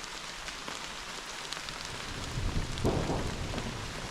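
Steady rain falling, with scattered drops ticking, and a low rumble of thunder building about two seconds in.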